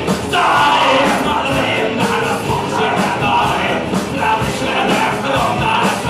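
A rock band plays a punk rock song, with a singer over a steady drum beat.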